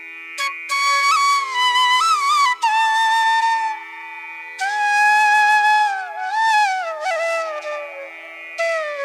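Relaxing instrumental background music: a flute plays a slow, ornamented melody with sliding pitches in phrases of a second or two, over a steady drone.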